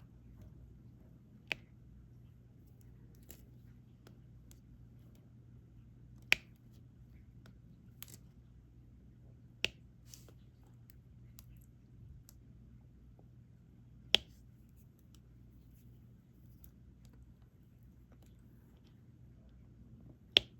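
Diamond painting pen tapping resin drills onto the adhesive canvas: six sharp single clicks spaced a few seconds apart, over a low steady hum.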